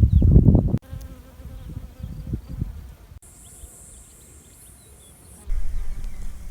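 An insect buzzing close by, loud and fluttering, cut off abruptly less than a second in. It is followed by quieter outdoor background with faint bird chirps and a steady high hiss in the middle stretch.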